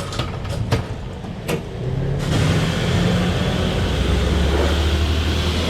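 A few clicks and knocks, then about two seconds in a high-pressure washer starts: a steady motor hum under the hiss of the water jet, rinsing soap foam off a car.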